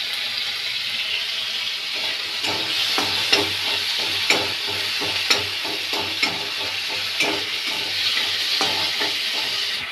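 Chopped tomatoes and green chilli sizzling in hot oil in a kadai as they cook down, while a metal spatula stirs them, scraping and knocking against the pan about once a second.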